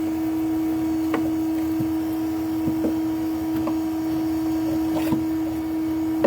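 A steady hum holds one pitch throughout, with a few light knocks and scrapes of a pry bar working into the ceiling over a beehive.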